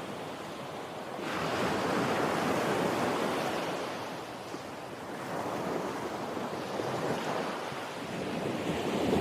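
Ocean surf: waves rolling in and washing out in slow surges, rising about a second in, again around the middle and once more near the end.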